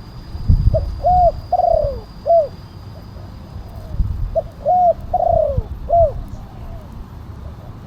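Spotted dove cooing, a loud 'kuk 1' song of the kind used as a lure call: two phrases about four seconds apart. Each phrase is a short note, an arched coo, a longer falling coo and a final arched coo.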